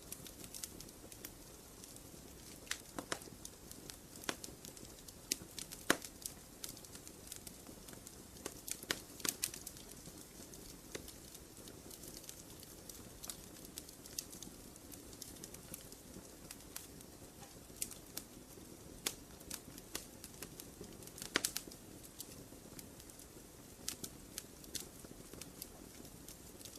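Wood fire crackling, with irregular sharp pops and snaps over a soft, steady hiss.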